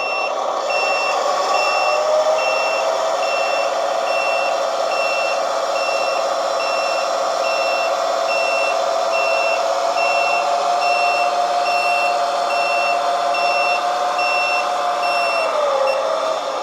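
Reversing beeper from the sound module of a radio-controlled model Fendt 1050 tractor, a steady high beep repeating about one and a half times a second. It plays over a steady drone that drops in pitch near the end as the beeping stops.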